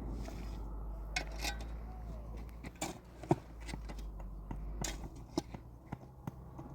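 Irregular light clicks and knocks of objects being handled, over a steady low rumble.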